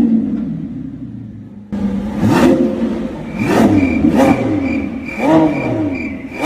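Lamborghini Revuelto's naturally aspirated V12 being revved at standstill. A rev dies back toward idle, then, after an abrupt change about two seconds in, comes a quick series of about five short blips, each rising and falling in pitch.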